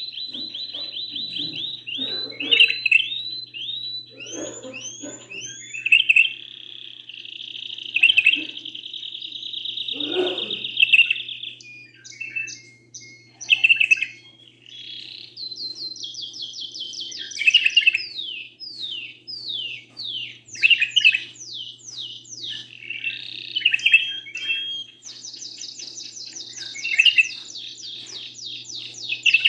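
Canary and bulbul song: long rapid canary trills and rolls of repeated notes, with bursts of slurred chirps, run through the whole stretch. A faint steady low hum sits underneath.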